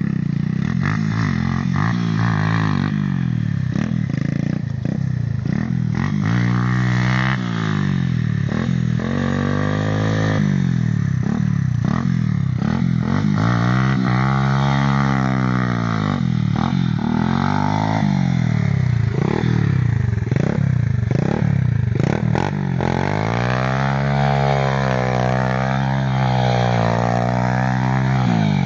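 Small motorcycle engine being ridden, revving up and easing off over and over, its pitch rising and falling in long swells of a few seconds each.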